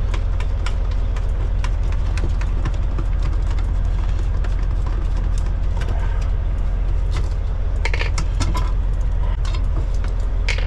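A heavy truck's diesel engine idling steadily, with scattered light clicks and knocks on top, two louder ones about eight seconds in and near the end.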